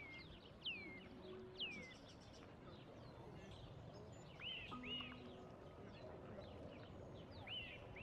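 Songbird calls: two clear whistles sliding down in pitch in the first two seconds, then a few short arched chirps later on, over a steady faint outdoor background.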